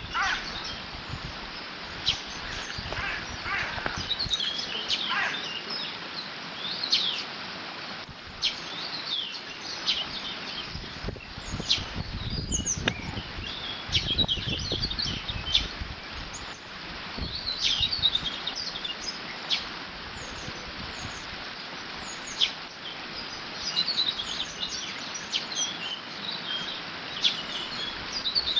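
Water rushing steadily over a beaver dam, with small birds chirping and singing throughout. Wind gusts rumble on the microphone around the middle.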